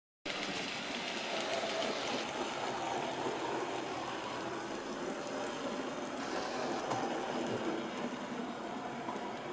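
Model trains running on the layout: a steady rolling rumble, with a faint high whine that joins about two seconds in.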